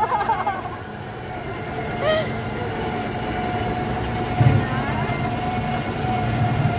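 Open-sided ride train running with passengers aboard: a steady whine over a low rumble that swells about four and a half seconds in and again near the end.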